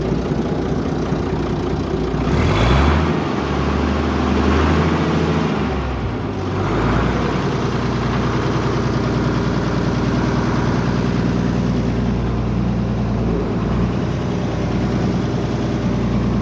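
Vintage Farmall tractor's four-cylinder engine running steadily, picking up speed briefly about two and a half seconds in and shifting pitch again around six seconds.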